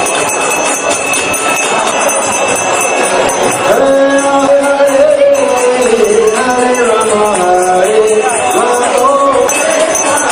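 Devotional kirtan music: jingling hand cymbals and bells keep a steady rhythm, and a singing voice comes in clearly about four seconds in, carrying a wavering melody.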